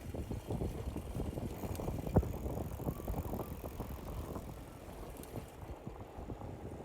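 Bicycle rolling along the road: a steady rumble from the tyres with rattling from the bike, and one sharp knock about two seconds in.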